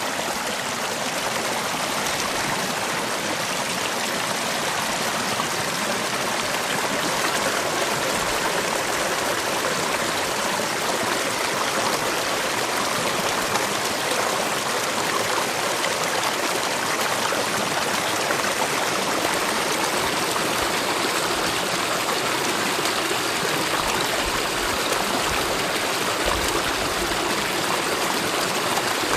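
Mountain valley stream flowing steadily, its water rushing in an even, unbroken hiss.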